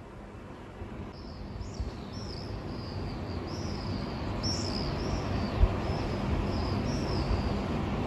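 Series of short, high-pitched bird calls, each a quick rise-and-fall chirp, coming about two a second from about a second in, from birds circling overhead. Beneath them is a low, steady rumble that grows louder, with a single dull thump a little past the middle.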